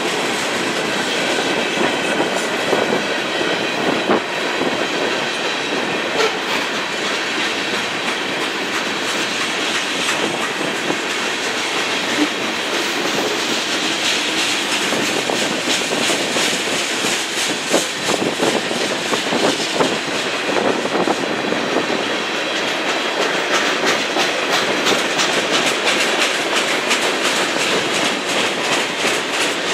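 A BNSF freight train's cars rolling past at steady speed, wheels clicking rapidly over rail joints with a faint high wheel squeal.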